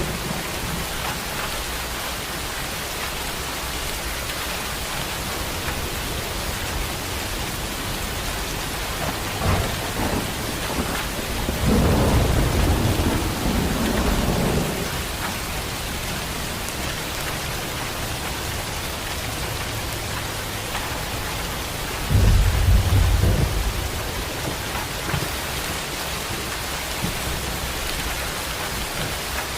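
Heavy rain falling steadily, with rolls of thunder rumbling about 12 seconds in and again about 22 seconds in.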